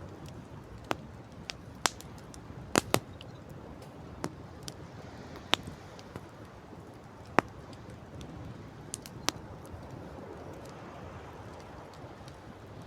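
Wood campfire crackling: a dozen or so sharp, irregular pops and snaps, the loudest a quick double pop about three seconds in, over a steady low rush.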